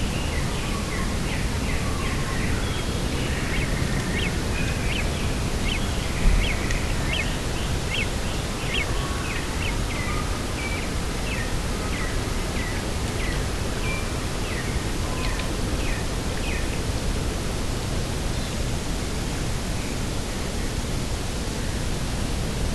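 Steady rushing wind, with a small bird giving a rapid series of short, high, downward chirps that die away about seventeen seconds in. A brief low thump about six seconds in.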